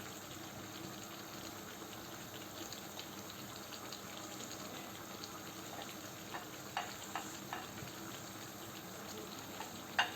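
Paella simmering in its pan of stock, a steady low bubbling and sizzling with faint crackles. A few light clicks come about two-thirds of the way through, and a sharper one near the end.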